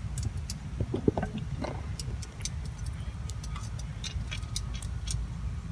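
Scattered light clicks and taps, likely from a gourd being handled, over a steady low rumble.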